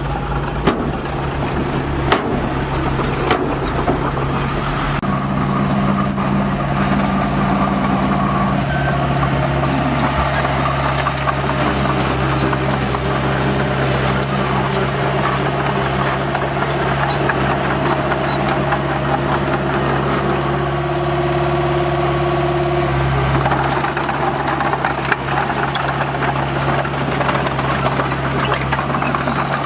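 Heavy diesel engine of earthmoving equipment running steadily under work, with a few faint knocks and clanks.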